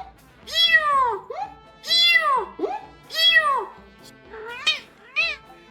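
Domestic cat meowing repeatedly, calling out: three long, drawn-out meows that rise and fall in pitch, then two shorter ones near the end. Light background music underneath.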